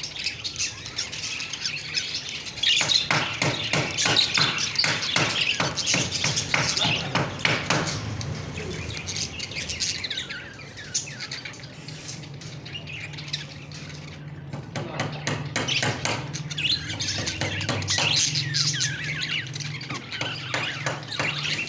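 Parrots chirping and squawking in quick, dense calls, busiest in the first half. A steady low hum runs beneath from about ten seconds in until near the end.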